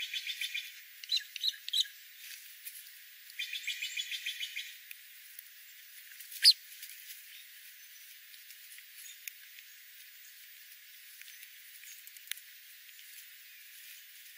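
Small birds chirping. There are two bursts of rapid, repeated chattering notes in the first few seconds, then one loud, sharp chirp about six and a half seconds in, after which only faint hiss remains.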